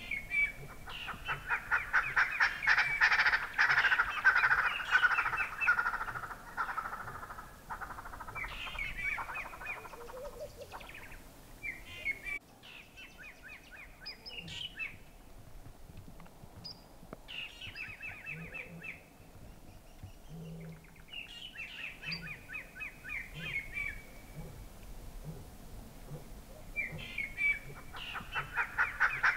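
Birds giving fast, rattling runs of repeated calls in bouts of a few seconds each, loudest during the first six seconds and again near the end.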